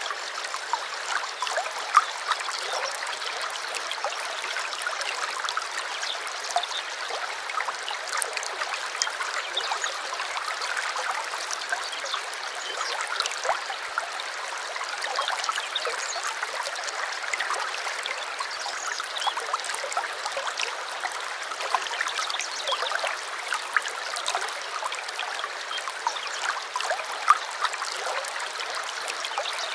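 Small stream running over stones, a steady babbling with many small splashes and trickles, and a few sharper splashes about two seconds in and near the end.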